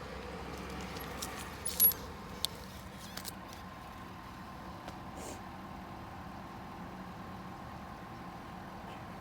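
Bicycle being ridden: steady rolling and wind noise with a few sharp metallic clinks and rattles, the loudest about two seconds in.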